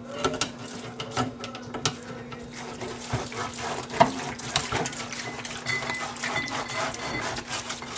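Metal fryer basket being scrubbed with a sponge, with many small clicks and knocks, over a steady low hum.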